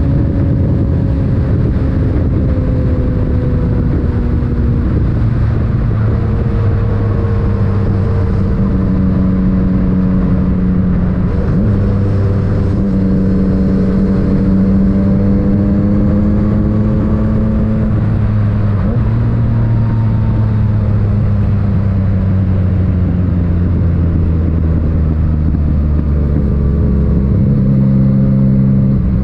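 Yamaha MT-09's inline-three engine running through an Akrapovic titanium aftermarket exhaust while riding. The engine note holds steady for a few seconds at a time, then steps up or down in pitch several times as the rider works the throttle and gears.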